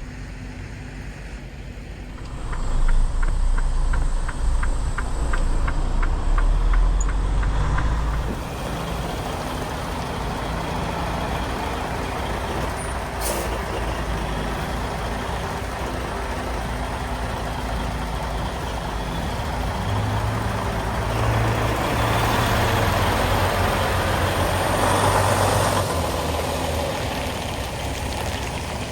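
Semi truck's diesel engine pulling hard while backing, with a regular beeping of about three a second for several seconds. It then settles to steadier running, with air-brake hissing and a longer rush of air a few seconds before the end.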